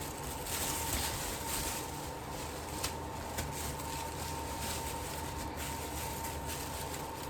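Thin plastic processing cap rustling as it is pulled over dyed hair, loudest about half a second to two seconds in, with a couple of small clicks, over a faint steady electrical hum.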